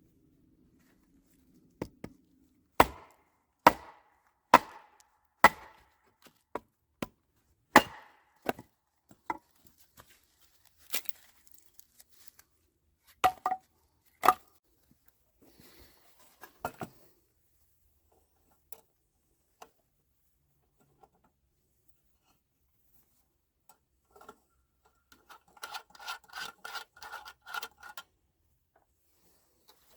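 A series of sharp, loud knocks of striking, about one a second at first, then scattered, like wood or metal being hit. Near the end comes a quicker burst of rattling clicks with a ringing note.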